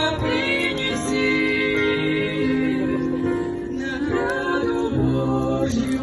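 A group singing a Christian worship song, with female voices prominent and held, steady notes over an instrumental backing.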